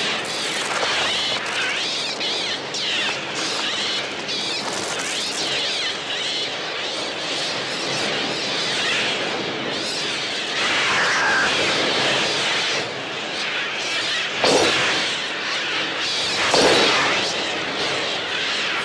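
A dense, continuous din of screeching gull cries, the film's electronically made bird sounds from a Mixtur-Trautonium. Two heavy thumps come about two seconds apart late on.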